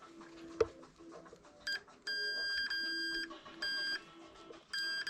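Electronic beeping from a multimeter's continuity tester as it is held on the soldered joints of the heated-grip element: a short beep, then a long beep with brief breaks, then shorter beeps, each sounding wherever the probes make contact. A faint low hum runs underneath, and there is a small click under a second in.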